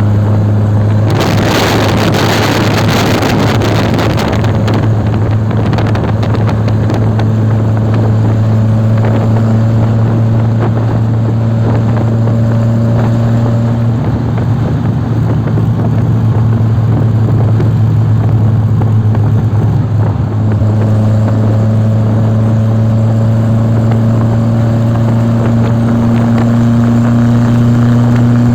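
An engine running at a steady, unchanging speed with a low, even hum. About a second in there is a few seconds of rushing noise, like wind or air passing.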